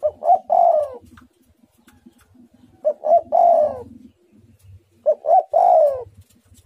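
Spotted dove (tekukur) cooing: three phrases about two to three seconds apart, each two short coos followed by a longer coo that falls in pitch.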